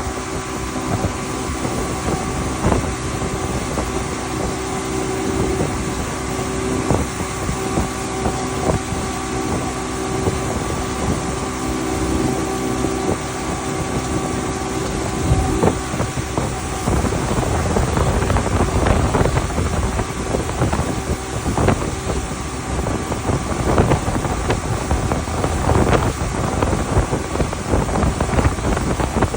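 Motorboat engine running at speed while towing, with wind buffeting the microphone and water rushing past. Steady engine tones sit under a constant wash of noise, with gusty bumps more frequent in the second half.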